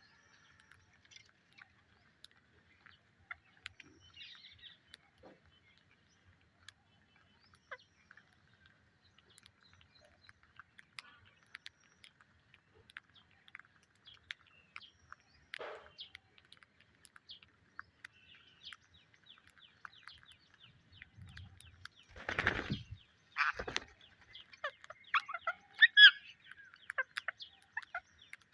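Pet Psittacula parakeets chirping and calling on and off, a scatter of short, sharp chirps. Near the end the calls get louder and harsher, with a couple of loud noisy sounds among them.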